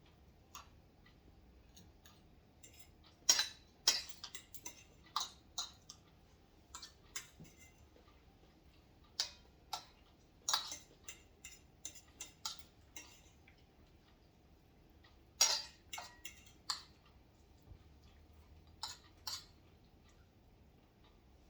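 Eating sounds at a meal: irregular sharp clinks and clicks of utensils against a bowl or plate, coming in small clusters.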